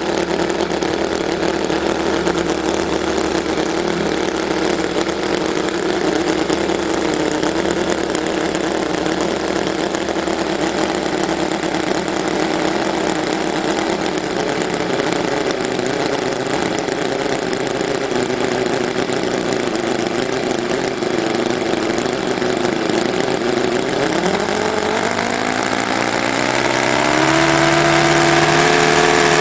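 TechnoPower 9C 1/5 scale nine-cylinder four-stroke glow-plug radial model engine running on a test stand, driving its propeller at a steady speed. About 24 seconds in it is throttled up, its pitch climbing and the sound growing louder toward the end.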